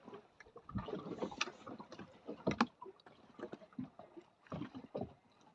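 Choppy swell slapping and splashing against the hull of a small drifting boat, with irregular knocks and thumps, the sharpest about two and a half seconds in.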